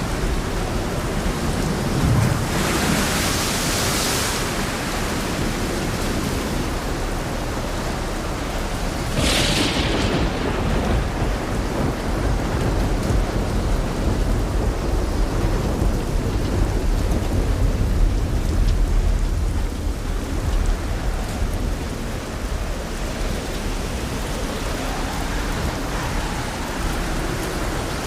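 Thunderstorm: thunder rumbling over steady light rain and wind. Brief hissing surges come about three and about ten seconds in, and a deep rolling rumble builds through the middle.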